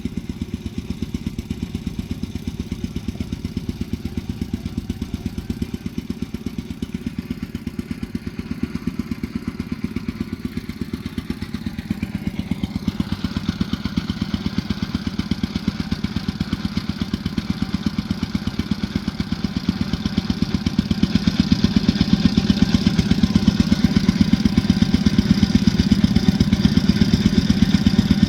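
An engine running steadily with a rapid pulsing beat, growing louder and brighter in the second half.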